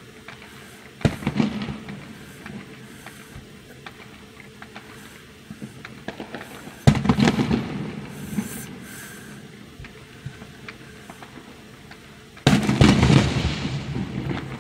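Aerial fireworks shells bursting: three loud booms roughly five to six seconds apart. Each boom trails off over a second or two with crackling, and a few smaller pops come just before the second one.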